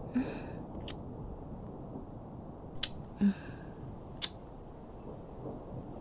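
Close-miked kissing sounds: a few sharp lip smacks and two softer, longer kisses, over a steady low rain ambience.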